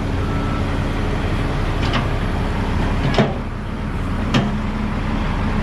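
Diesel engine of a log loader running steadily under load while it lifts, with three sharp metal clanks at about two, three and four and a half seconds in.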